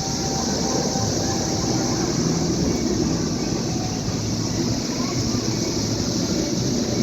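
Loud chorus of periodical cicadas, a steady high hiss that doesn't let up, over a low steady rumble.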